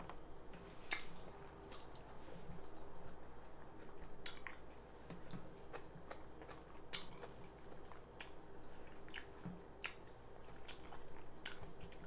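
A person eating close to the microphone: chewing with irregular, sharp wet mouth clicks.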